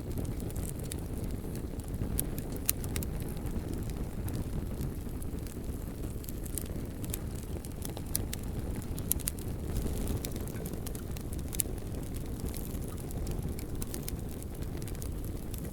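Bonfire burning: a steady low rumble under scattered, irregular sharp crackles and pops from the burning logs.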